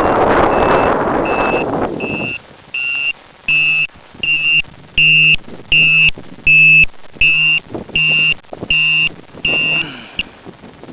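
Wind buffeting the microphone for about two seconds, then an electronic beeper sounding a string of short, high, evenly spaced beeps, a little under two a second, growing louder over the first few.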